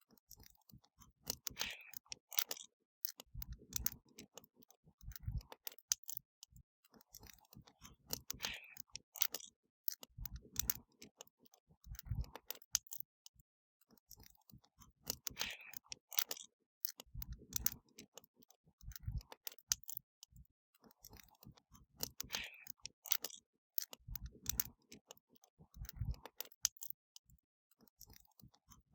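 Wood fire crackling: scattered sharp pops and snaps with a few soft low thuds between them, and the same pattern of crackles repeating about every seven seconds.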